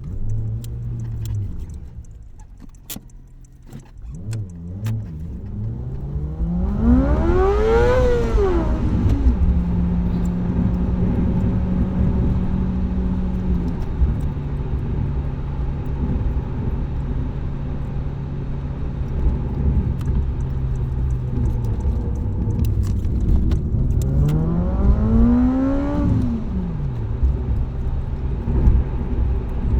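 Car engine and aftermarket exhaust under way: the revs climb to a peak about eight seconds in and drop away, the engine then runs at steady revs, and near the end a second, shorter rise and fall in revs.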